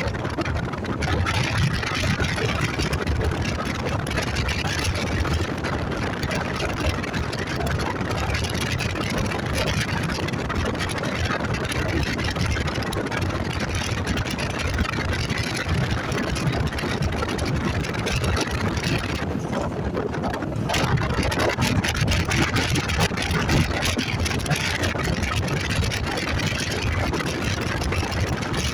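Motorcycle running while being ridden, a steady rush of engine and wind noise with no break; the hiss thins briefly about two-thirds of the way through.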